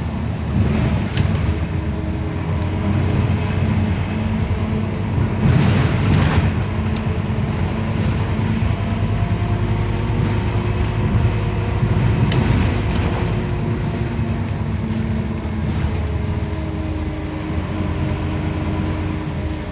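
Scania CN270UB city bus running under way, heard from inside the passenger cabin: a steady engine drone over road rumble. Two brief rushes of noise come about six and about twelve and a half seconds in.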